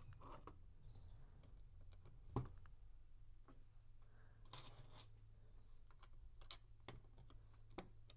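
LEGO plastic pieces clicking and being handled: a few sparse, separate clicks, the sharpest about two and a half seconds in, with a brief rustle of handling near the middle over a low steady hum.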